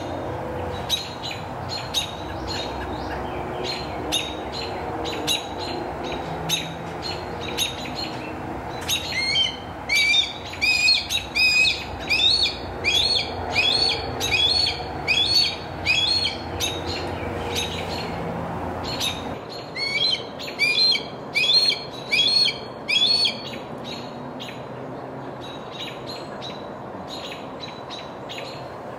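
A bird calling in two runs of short, sharp, repeated notes, about two a second, with scattered ticks before them. Under them is a steady low background rumble that drops away about two-thirds of the way in.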